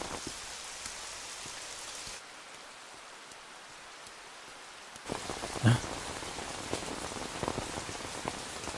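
Steady rain falling. It drops softer for about three seconds in the middle, then returns with a few short knocks, one thump louder than the rest about two-thirds of the way through.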